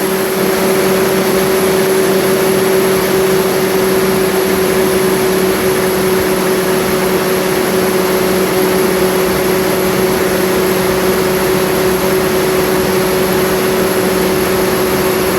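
Pump engine running steadily at its set operating RPM after its controlled warm-up ramp, with an even hum that holds one pitch throughout.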